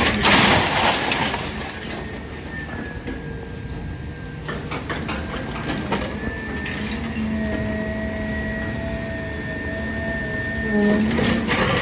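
Idromec T 650 CLS scrap metal shear baler working, its hydraulics giving a steady whine of several tones. A loud surge comes at the start and again near the end, and a cluster of sharp metal cracks sounds about halfway through as scrap is crushed.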